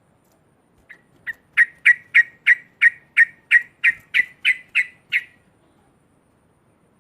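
Yellow-vented bulbul (cucak trucuk) giving a rapid run of about fourteen sharp, identical notes, about three a second, starting softly and quickly growing loud, then stopping about five seconds in.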